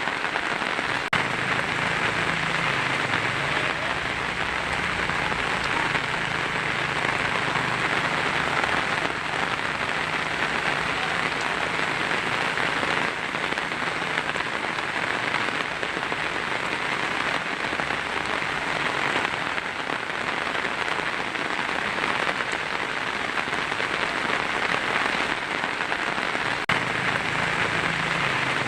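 Heavy rain falling steadily on a tin roof, an even dense patter.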